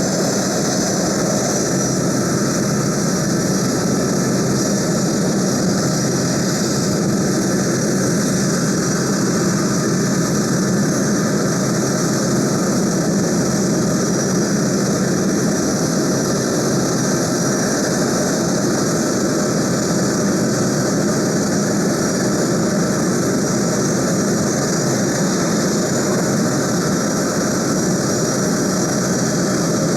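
Boeing C-17A Globemaster III's Pratt & Whitney F117 turbofan engines running steadily with a high fan whine over a deep rumble.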